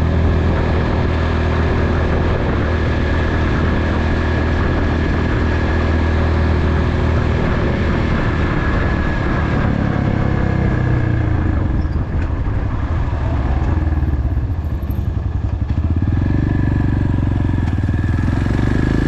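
Motorcycle engine running steadily; about two-thirds of the way through its note drops and thins for a few seconds, then picks up again.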